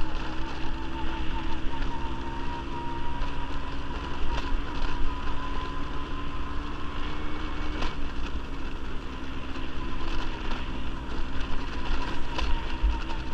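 Quad bike (ATV) engine running at a fairly steady pace while riding, with a heavy low rumble and a few sharp clacks along the way.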